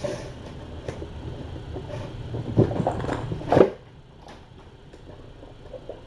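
A few knocks and clatters, the loudest about three and a half seconds in, over a low steady hum that drops away just after it.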